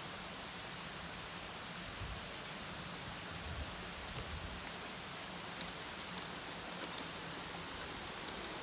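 Steady outdoor hiss with a small bird calling: one brief high chirp about two seconds in, then a quick run of short, high notes for a couple of seconds from about five seconds in.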